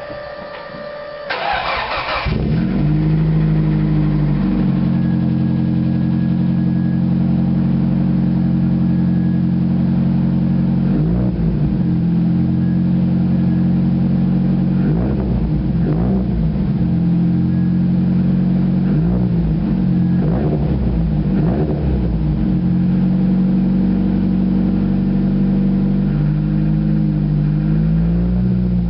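Nissan 200SX's turbocharged four-cylinder engine, breathing through an SSA dual-pipe aftermarket exhaust, cranked on the starter and catching about two seconds in, then idling steadily. Several short throttle blips rise and fall in pitch through the idle.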